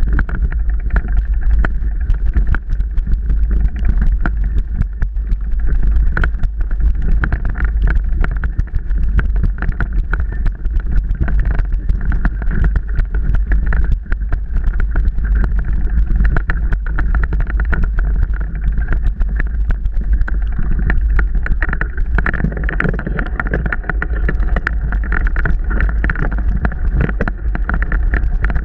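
Mountain bike ridden over rough trail, heard from a camera mounted on the bike or rider: a constant clatter of rapid knocks and rattles over a heavy rumble of wind on the microphone.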